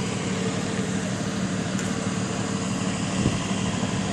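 A vehicle engine idling with a steady hum, with one brief knock about three seconds in.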